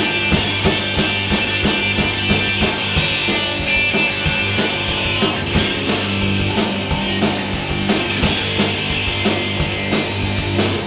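Rock band playing an instrumental passage with no vocals: drum kit beating a steady rhythm under electric guitars.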